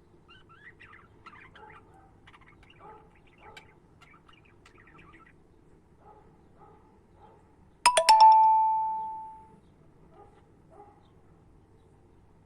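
Budgies chirping softly, then a bell struck sharply about eight seconds in, rattling briefly and ringing out for about a second and a half.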